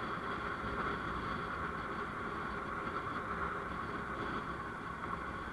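Steady vehicle and road noise from driving along a road, an even hum with no distinct events.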